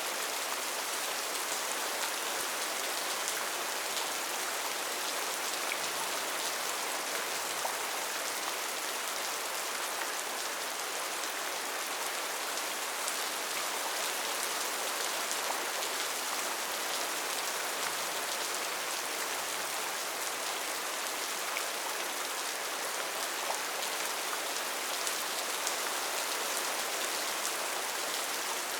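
Steady rainforest rain falling on foliage, an even hiss with many close drop patters.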